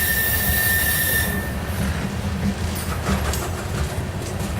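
Loaded freight train of grain cars rolling past with a steady low rumble of wheels on rail. A single high, steady wheel squeal sounds over it at the start and stops about a second and a half in.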